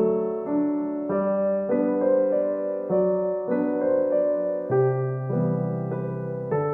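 Piano music: slow chords and single notes played one after another with a low bass line, no other sounds over it.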